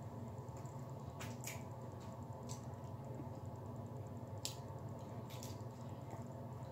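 Close-up eating sounds of someone chewing fried chicken wings: about five sharp mouth clicks over about six seconds, the loudest a little past the middle.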